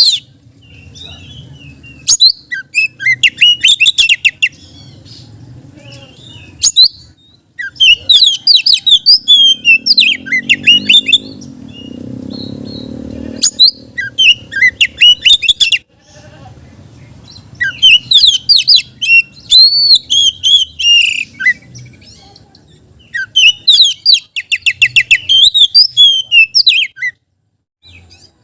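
Oriental magpie-robin (kacer) singing loudly in phrases of a few seconds each, full of varied whistled notes and fast trills, with short pauses between phrases.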